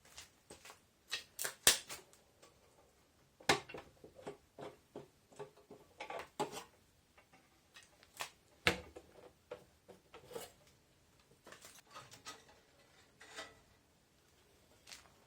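Scattered irregular clicks and light knocks, as of small parts and tools being handled on a workbench. The loudest is a sharp knock about a second and a half in.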